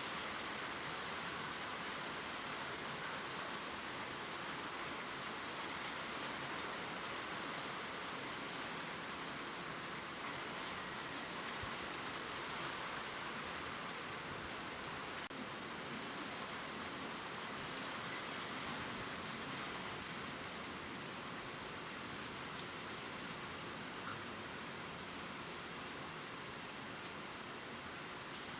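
Steady gentle rain falling and ticking on leaves, an even hiss with scattered faint drop ticks.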